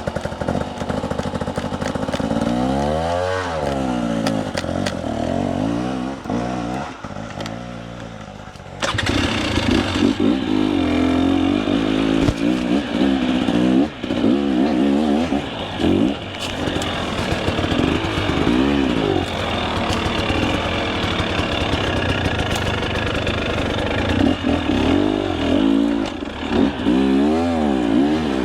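Two-stroke enduro dirt bike engine revving hard and unevenly on a steep climb, the throttle blipped up and down again and again, louder from about nine seconds in.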